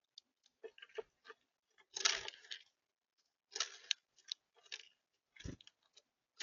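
Close-up clicks and crunches of seed being pecked and cracked at a bird feeder, in irregular short bursts, with the loudest crunches about two seconds in and again near the four-second mark.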